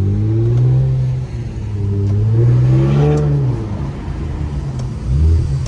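Straight-piped Infiniti Q50 accelerating hard from a green light. The engine note climbs, drops about a second in as it shifts up, climbs again, then falls away after about three seconds.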